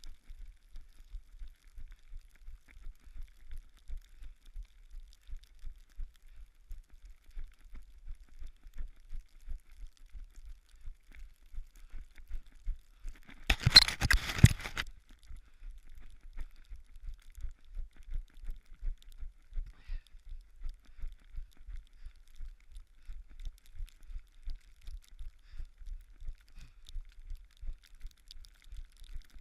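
Footsteps of a runner on a snowy trail, even low thuds about three a second, with a loud rustling burst about a second long near the middle.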